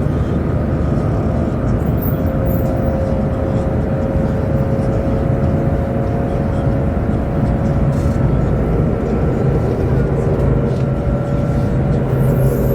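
Steady low rumble and rushing noise inside the passenger cabin of a Chinese high-speed train running at speed, with a few faint steady tones above it.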